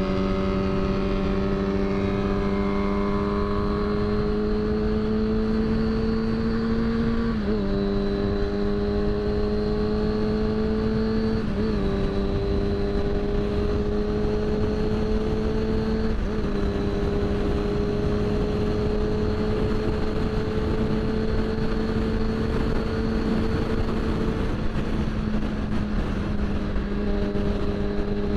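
Four-cylinder motorcycle engine running at road speed under steady wind rush, its pitch climbing slowly and dropping briefly three times in the first half as gears are changed, then holding steady.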